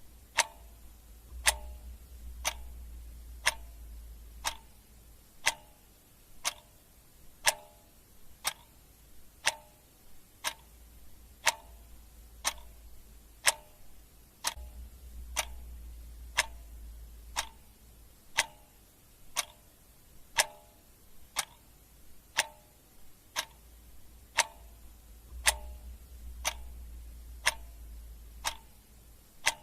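Clock ticking sound effect: sharp, evenly spaced ticks at about one a second, under a faint low hum that swells and fades every several seconds.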